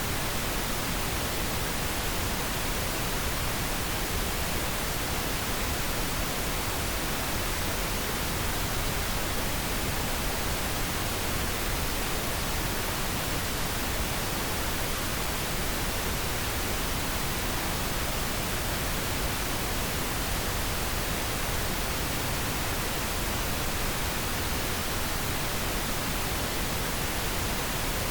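Steady synthetic pink noise: an even, unchanging hiss spread across the whole range, with no breaks or events.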